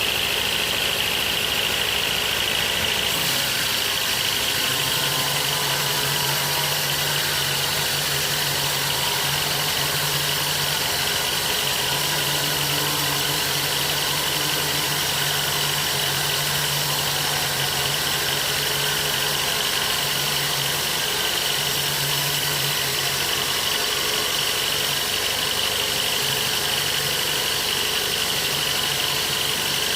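An engine running steadily at one speed, with a steady high whine over it and a low hum that swells and fades.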